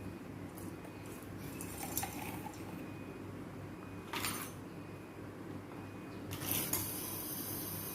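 Metal clinks and scrapes, three short bouts, over a steady low hum; near the end a high hiss starts and keeps going.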